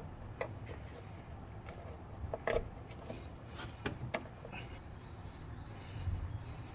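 Scattered light clicks and taps of a brake pad wear sensor's plastic electrical connector being handled and pushed into its connector box, the sharpest click about two and a half seconds in, over a low steady rumble.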